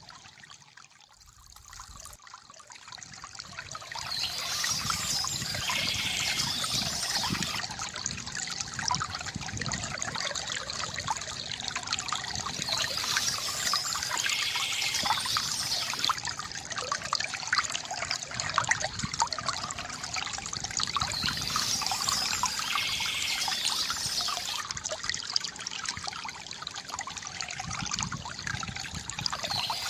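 Water trickling and splashing from a bamboo fountain in a steady gurgling flow. It starts faint and rises to full level about four seconds in.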